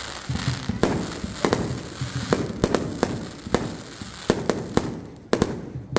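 Aerial fireworks going off in quick succession: about a dozen sharp bangs at uneven intervals, each echoing, over a continuous crackle of bursting shells.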